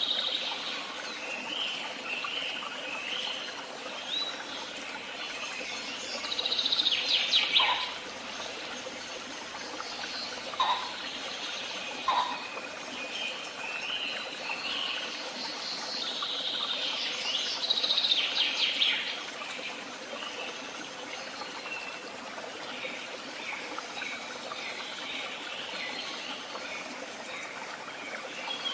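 Several wild songbirds singing over a steady background hiss. Short chirping phrases overlap throughout, and two louder rapid trills, each a couple of seconds long, come about a quarter of the way in and again past the middle.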